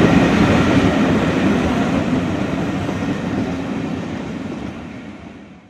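Steam-hauled excursion train rolling slowly past, a steady rumble of wheels and coaches on the rails that fades away and dies out at the end.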